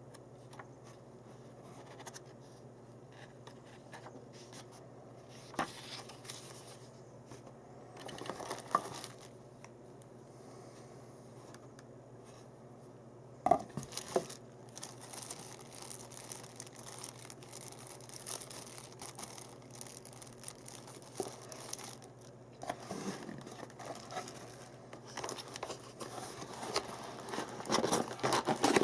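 Packaging being handled and unwrapped: crinkling and tearing with scattered clicks and knocks, in bursts that grow busier near the end, over a steady low hum.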